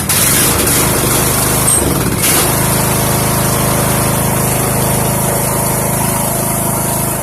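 Poulan Pro riding tractor's engine firing on a cold first start of the season, running unevenly at first and settling into a steady run about two seconds in, with the choke still on.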